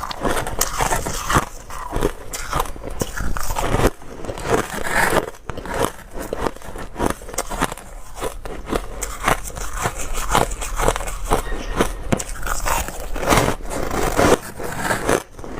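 Close-miked biting and chewing of hard, crunchy ice: a dense, irregular stream of loud crunches and crackles with no pause.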